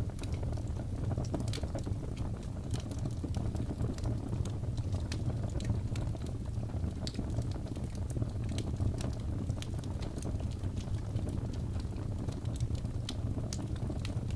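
Fire in a fireplace crackling: a steady low rumble of the flames with many small, irregular, sharp pops and snaps.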